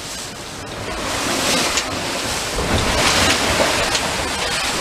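Waves rushing along the hull of a heeled sailboat beating into 3 to 4 foot seas, mixed with wind buffeting the microphone. The rush swells about a second in and is strongest around three seconds.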